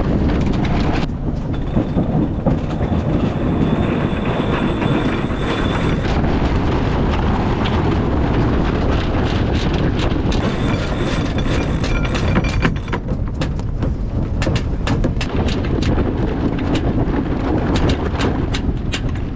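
Strong wind buffeting the microphone aboard a sailboat heeling hard in 25 to 30 knots, with rushing water, and a run of sharp clicks and knocks in the second half.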